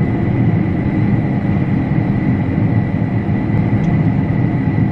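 Combine harvester running steadily while cutting wheat: a deep, even machinery rumble with a thin, steady high whine on top.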